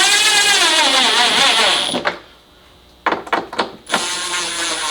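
Cordless drill/driver running under the trigger, its motor speeding up and slowing down. It stops about two seconds in, a few clicks follow, and it starts again near the end, running down the screws of the air filter box.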